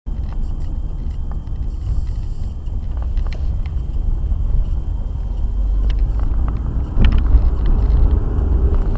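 Low road and engine rumble of a moving car, with a few faint clicks, growing louder about seven seconds in.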